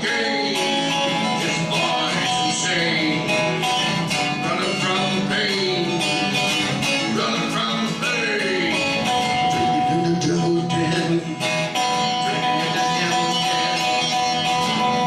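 Acoustic guitar strumming in an instrumental passage of a song, with some notes bending up and down.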